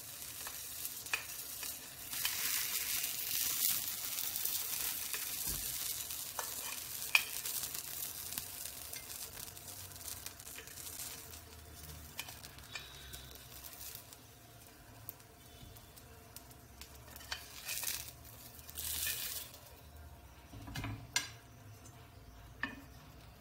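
Dosa sandwiches sizzling in a hot non-stick grill pan. The sizzle is loudest in the first half and then dies away, with a brief louder hiss later on. Short clicks and scrapes of a metal spoon against the pan come as the sandwiches are lifted out onto a plate.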